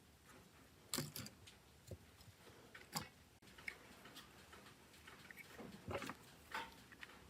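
Scattered light clicks and taps of small tools and smartphone parts being handled on a workbench. The sharpest come about a second in and at three seconds, with softer ones around six seconds.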